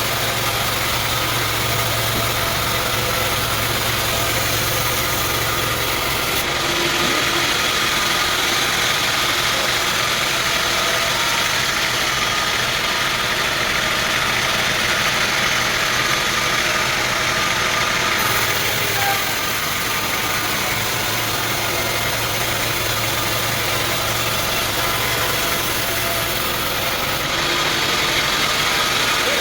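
Sawmill machinery running steadily, an engine-driven noise whose tone shifts about six seconds in, again around eighteen seconds and near the end.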